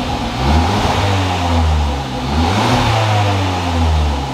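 Hyundai i30 N-Line revved twice through an Xforce valved catback exhaust with its valves closed, each rev climbing and falling back. With the valves closed it is still louder than the stock exhaust.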